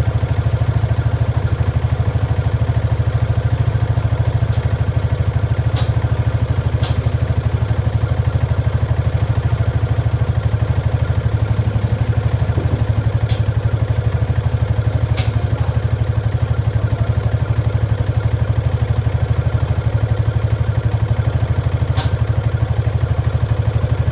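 Motorcycle engine idling in gear with a steady, even beat, driving the chain. A few sharp ticks sound over it now and then.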